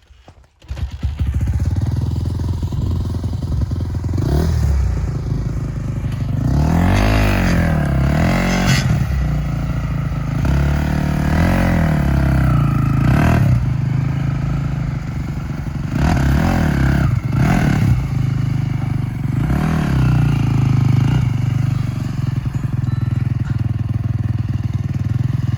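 Honda TRX450R quad's single-cylinder four-stroke engine under load off-road, revving up and falling back again and again as the throttle is worked.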